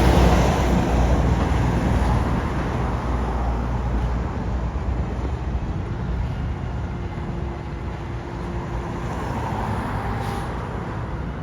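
Garbage truck running with a heavy, steady rumble that slowly gets quieter.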